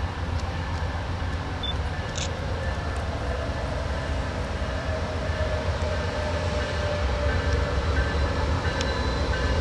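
Train rolling past: a steady low rumble of wheels and railcars on the track, with a few faint clicks.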